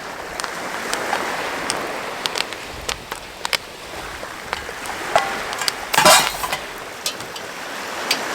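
Popcorn popping in a pot over a campfire: scattered sharp pops over a steady sizzling hiss, with a louder rattle about six seconds in.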